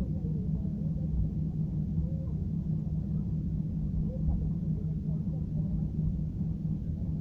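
Steady low rumble of an airliner's jet engines and airflow heard from inside the passenger cabin in flight, with faint voices murmuring over it.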